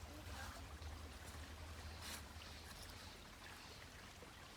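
Faint, steady rush of a small creek flowing.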